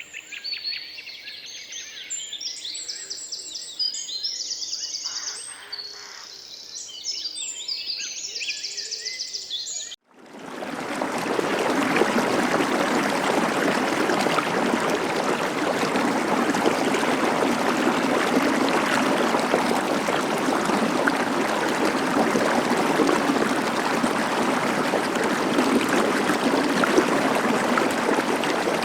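Several songbirds singing, with many short high chirps and trills. About ten seconds in, this cuts abruptly to the loud, steady rush of flowing stream water.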